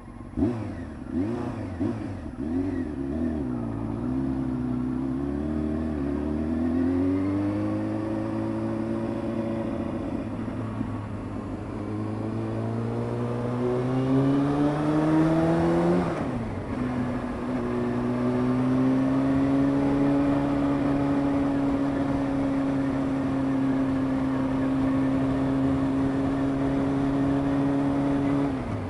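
Honda CBR600 F2's inline-four engine under way. The revs waver at first, then climb steadily for about twelve seconds and fall sharply at a gear change about sixteen seconds in. The engine then holds a steady cruise, and the revs fall again at the very end. The owner feels the bike's shifts are not as quiet as they should be and suspects a slipping clutch.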